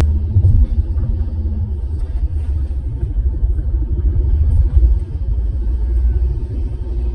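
Car engine running, a low uneven rumble heard from inside the cabin at the pedals.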